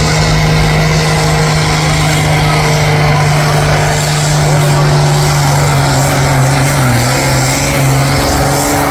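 Competition pulling tractor's engine running hard and steady at high revs, its pitch sagging briefly about seven seconds in before picking up again.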